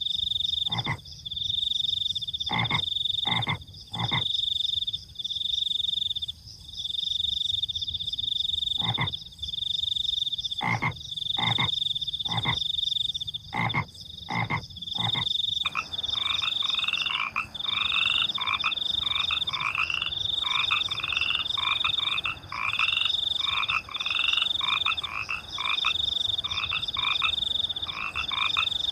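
Night chorus of frogs and crickets: a high, steady trilling in repeated phrases throughout, with single deep croaks every second or two in the first half. About halfway through, a faster frog chorus of quickly repeated calls joins in and carries on to the end.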